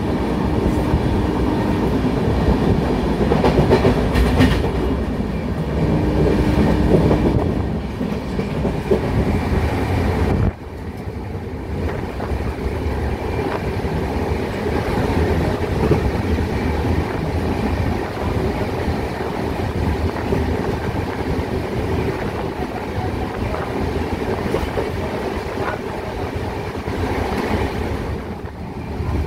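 Moving passenger train heard from inside the coach: the steady rumble of the wheels running over the rails. The level drops abruptly about ten seconds in, then carries on steadily.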